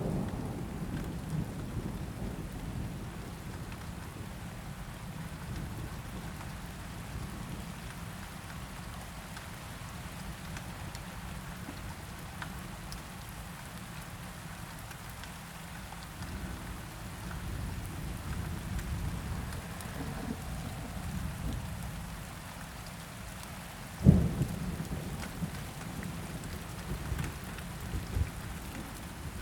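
Steady rain falling, with low rolling thunder rumbling underneath. Late on, a sudden loud thunderclap cracks, then rumbles off.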